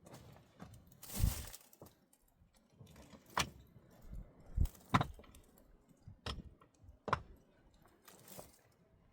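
Irregular knocks and clinks of objects being handled, about six in all, with short rushing noises about a second in and again near the end.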